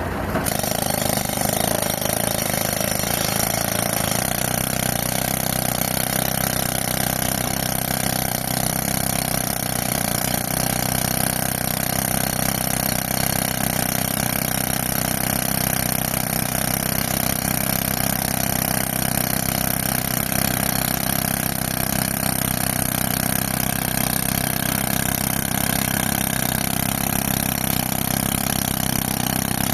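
Tractor engine running steadily, driving an air compressor for rock drilling: a constant, unchanging machine noise.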